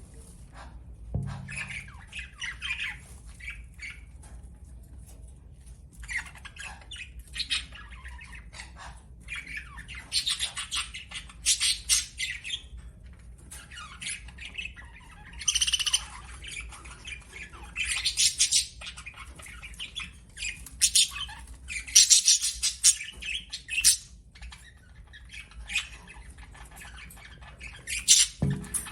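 Pet budgerigars chattering and squawking in short, irregular bursts of high chirps, with short pauses between bursts and the busiest stretch in the middle.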